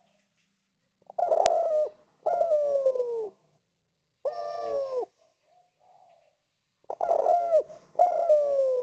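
Spotted dove (derkuku/tekukur) cooing: five loud coos, each about a second long and sliding down in pitch, plus a faint short note between them. A sharp click sounds about a second and a half in.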